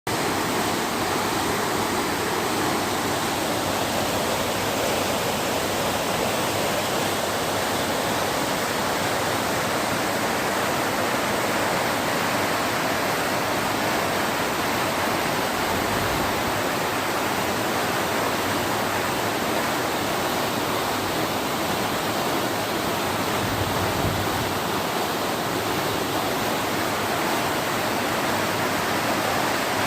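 Canal water rushing, a loud, steady, unbroken rush of fast-flowing water.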